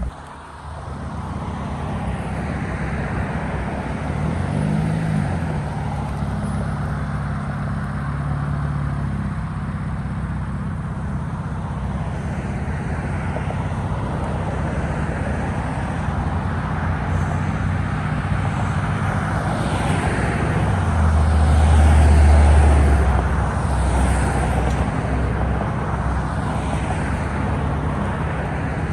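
Car engines running, with a steady low engine sound throughout. Past the middle, a deep exhaust rumble swells up, becoming the loudest sound, then fades as the engine note rises and falls.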